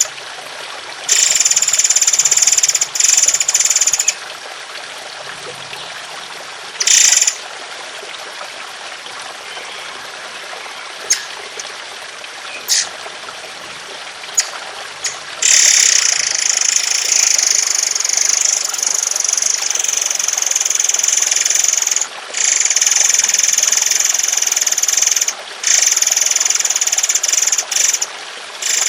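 Songbird giving long, harsh rapid-fire song bursts of the kind used to train caged birds, each lasting several seconds, over a steady background of trickling water. One burst comes early, one is short, a few sharp clicks follow, and from about halfway the bursts run almost without a break.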